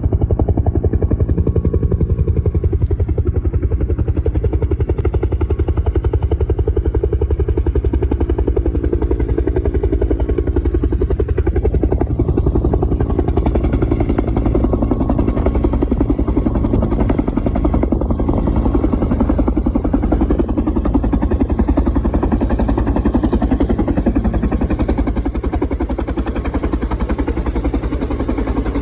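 Helicopter rotor chopping rapidly and steadily, loud and close, as the helicopter lands; the level eases slightly near the end.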